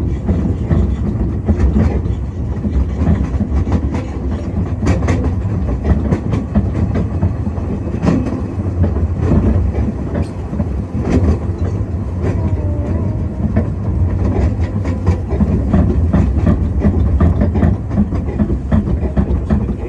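Small narrow-gauge train running along the track: a steady low rumble with irregular clicks and knocks of the wheels over the rail joints.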